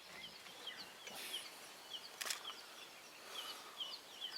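Birds chirping in the bush: many short, high notes repeated in quick succession, faint, with a couple of sharp clicks, the loudest about two seconds in.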